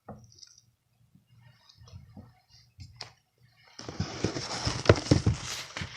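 Faint rustling and small clicks, then about four seconds in a loud crinkling and crunching close to the microphone as the chicken flatbread and its wrapping are handled and bitten into.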